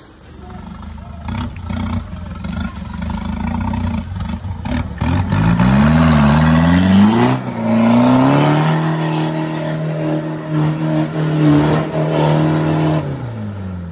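Off-road 4x4 vehicle's engine revving hard. The revs climb and swing up and down, then hold high and steady for several seconds before dropping off near the end.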